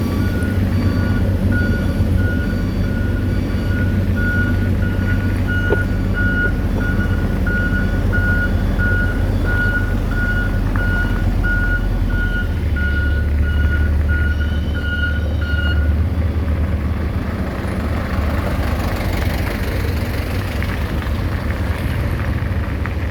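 Reversing alarm on a piece of road-building machinery, beeping steadily over the low running of a heavy engine. The beeping stops about two-thirds of the way through while the engine keeps running.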